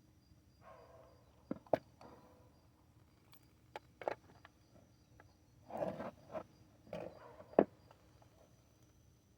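Handling noise from work on a hydro-boost brake booster: a few sharp clicks and knocks, one of them loud near the end, with short scuffing and rustling sounds between them.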